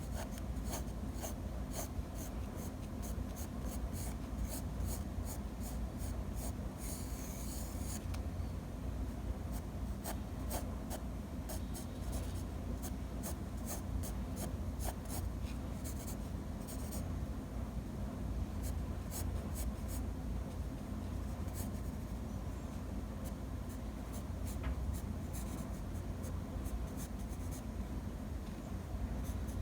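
Drawing strokes: a drawing tool tapping and scratching across a surface in many short strokes, with a denser stretch of scribbling about seven seconds in. A steady low hum runs underneath.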